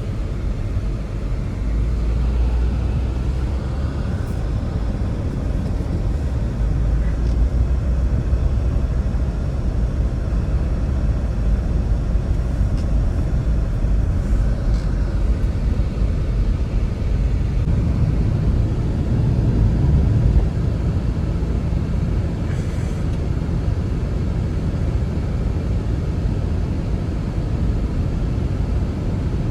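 Strong blizzard wind blowing steadily, a deep low rumble with a swell about two-thirds of the way through.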